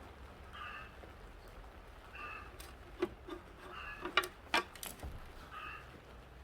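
A few sharp metallic clicks and clinks of tools being handled, the loudest about three seconds in and twice more a second or so later. In the background a short call repeats about every one and a half seconds.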